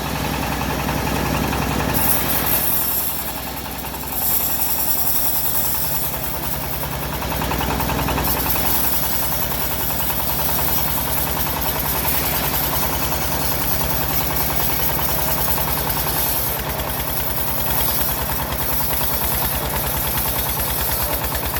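Engine of a homemade bandsaw mill running steadily at a low, even hum, with the hiss of the blade cutting through wood swelling and fading over it.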